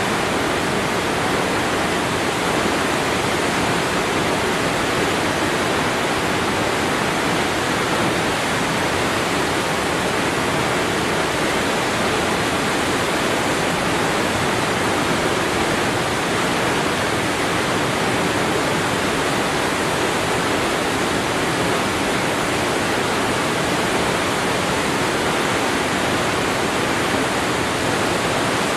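Waterfall: a steady, even rush of falling water, with no change.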